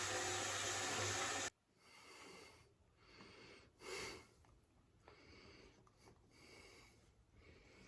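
A steady rushing hiss with a low hum cuts off suddenly about a second and a half in. It is followed by faint, short, breathy sounds, the loudest about four seconds in, and a few small clicks.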